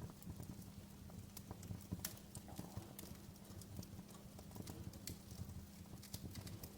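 Wood fire crackling in a fireplace: irregular sharp pops and snaps of varying loudness over a low, steady rumble.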